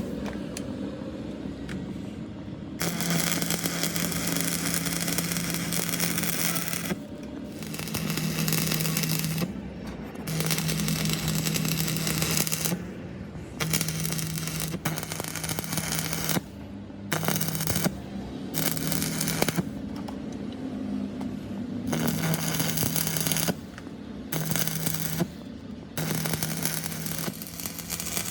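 Electric welding crackling in a series of short stop-start bursts, each a second to a few seconds long, with a low steady hum from the welder while each arc runs: metal being built up bead by bead.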